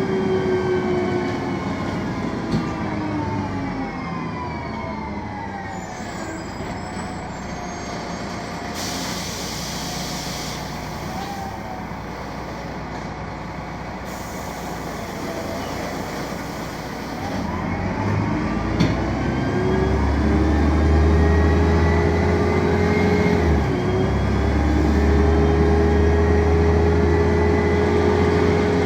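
City bus's Mercedes OM 906 LA six-cylinder turbo-diesel engine and Voith automatic gearbox winding down as the bus slows, falling in pitch. Two bursts of air hiss follow while it runs quietly. About eighteen seconds in, the engine pulls away loud and low with a rising gearbox whine, then settles into a steady drone.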